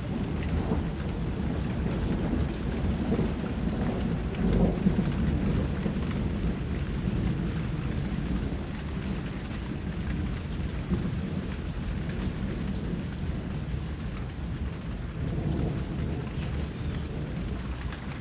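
Steady rain falling with low rolling thunder rumbling underneath, swelling loudest about four to five seconds in and again near the end.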